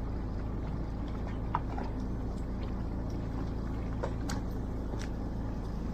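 A fishing boat's engine running steadily with a low hum, with a few faint clicks scattered over it.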